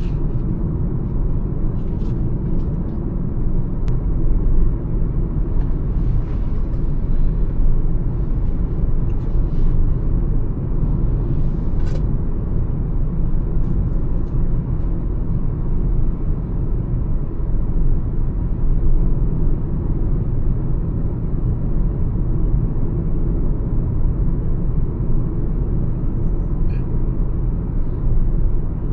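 Mahindra XUV 300 cruising on a highway: a steady low rumble of tyre, wind and engine noise, with a few faint ticks.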